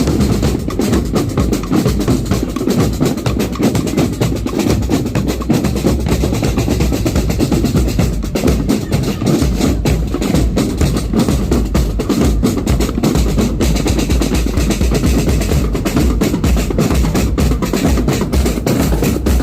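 A drum corps' marching drum line playing continuously: rapid snare drum strokes and rolls over steady bass drum beats.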